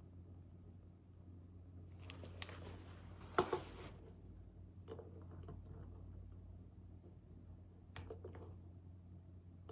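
Quiet room with a steady low hum and small handling sounds: a rustle with a sharp click about three seconds in, and fainter clicks later.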